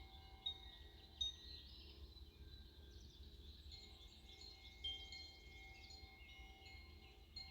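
Wind chimes ringing faintly and irregularly, several fixed high notes sounding and dying away, over a low steady rumble.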